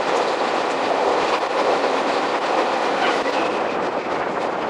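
Jomo Electric Railway 700-series electric train (a rebuilt ex-Keio 3000-series car) running along the track, heard from inside its rear cab: a steady rumble and clatter of wheels on the rails.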